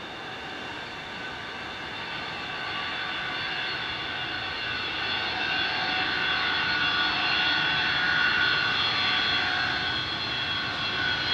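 Avro Vulcan's four Olympus turbojets running with a steady high whine of several pitched tones over a jet rush, growing gradually louder.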